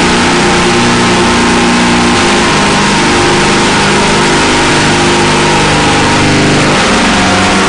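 Harsh-noise drone music: a dense, loud wall of distorted noise over sustained low droning tones that step to new pitches every few seconds, with no let-up in level.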